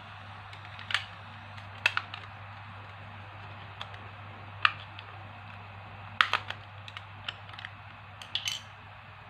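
Hands handling a plastic toy and its packaging: irregular sharp clicks and taps, a dozen or so, the loudest cluster about six seconds in, over a steady hiss and low hum.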